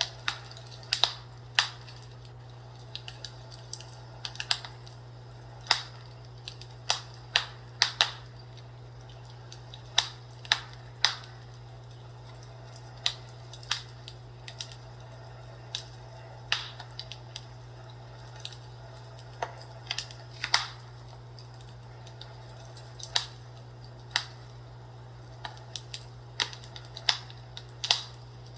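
Wood fire crackling: irregular sharp pops and snaps, several in quick clusters with quieter gaps, over a steady low hum.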